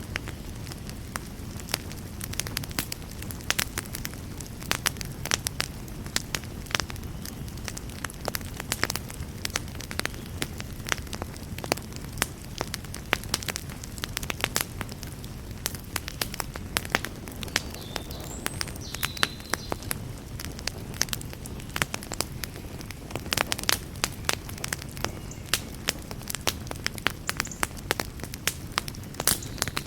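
Wood fire crackling in a fireplace: frequent irregular sharp pops and snaps over a steady low rumble of the burning logs.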